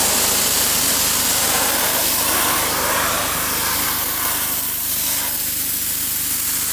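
Rented 2700 PSI gas pressure washer blasting a wooden fence board: a loud, steady hiss of the high-pressure water jet over the engine running steadily underneath, cleaning off green growth.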